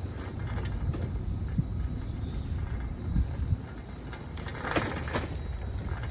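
Steady low rumble of a bicycle ride, wind buffeting the microphone over tyre noise, with a few scattered clicks and a short hissy burst about five seconds in.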